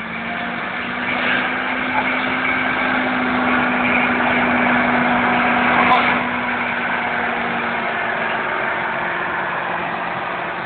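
A two-wheel-drive tractor's engine at a tractor pull revs up and holds at high revs under heavy load while dragging the weight sled. Its pitch eases slightly near the end. There is a single sharp click about six seconds in.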